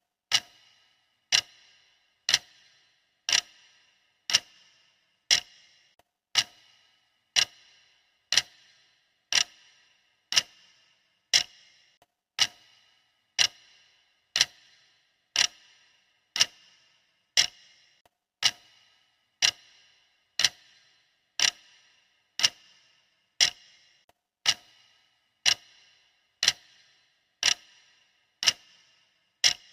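Clock ticking steadily at about one tick a second, each tick sharp with a short ringing tail.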